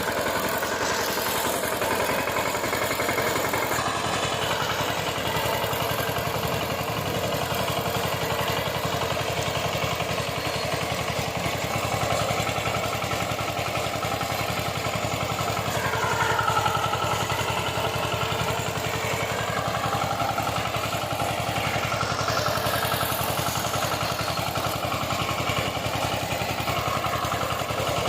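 VST Shakti power tiller's single-cylinder diesel engine running steadily with an even chugging rhythm. A brief wavering whine rises and falls about halfway through.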